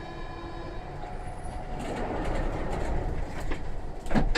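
Siemens VAL 208 NG2 automated rubber-tyred shuttle train running. A steady whine fades out within the first second, then the rolling rumble grows louder, and a sharp knock comes near the end.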